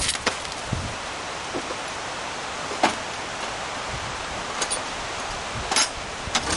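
Scattered sharp knocks and clicks of tools and parts being handled during teardown of an air compressor, over a steady hiss of background noise.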